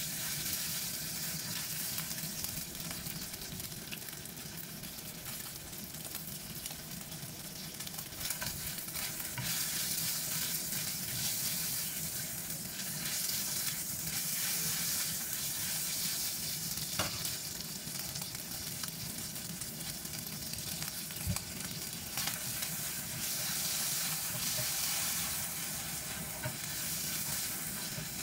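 Pork rib pieces sizzling as they fry in oil in a nonstick pan, with a spatula stirring and scraping them around the pan. The sizzle is steady, broken by a couple of sharp clicks.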